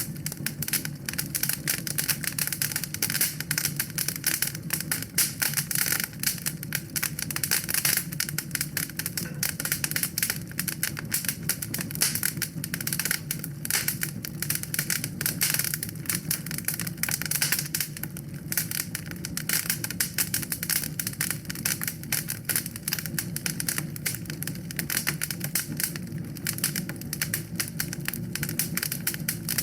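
Wood fire crackling in a fireplace: a dense, irregular run of small snaps and pops over a steady low rumble.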